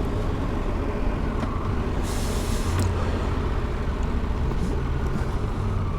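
Triumph Tiger 1200 GT Explorer's three-cylinder engine running steadily while riding, with wind and road noise. A brief hiss comes about two seconds in.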